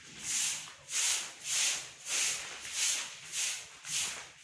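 Rhythmic hissing, one short burst about every two-thirds of a second.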